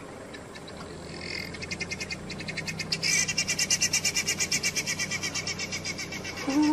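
A bird's rapid rattling call, about eight notes a second, growing louder about three seconds in and fading toward the end. A short low call comes just before it stops.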